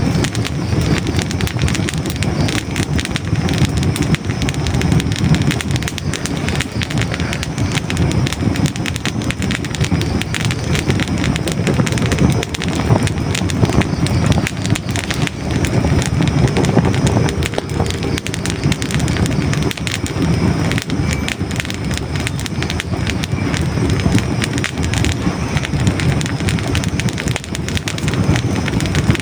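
Hardwood logs burning in a fireplace, close up: a dense, constant stream of small crackles and pops over a steady low rush of flame.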